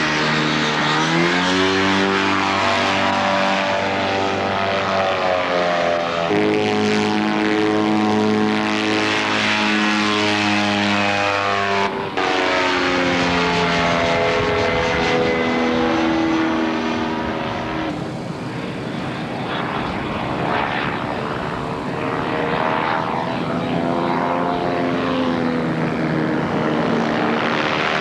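Kolb ultralight aircraft's engine and propeller running, its pitch rising and falling in long sweeps, with a sudden break about twelve seconds in.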